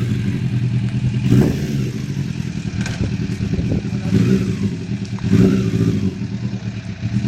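Motorcycle engine running and being revved several times, swelling about a second and a half in, again around four seconds and once more past five seconds.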